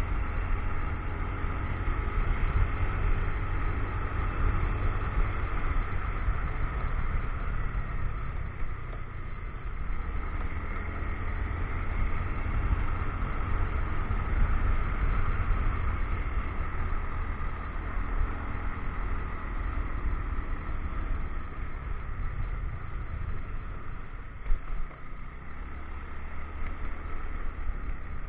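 Motorcycle engine running steadily while riding, under a heavy low rumble of wind on the action camera's microphone. A single sharp knock comes near the end.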